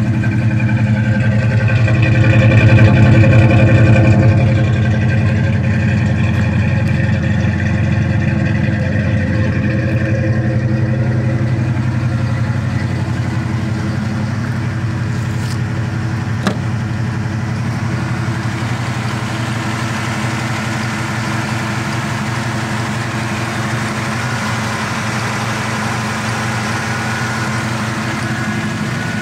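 Carbureted 5.0 L (302) small-block Ford V8 with a Holley 600 cfm four-barrel, Trick Flow Trackmax cam, longtube headers and Flowmaster mufflers, idling steadily while warming up after a cold start. It is louder for a couple of seconds near the start, then settles to an even idle.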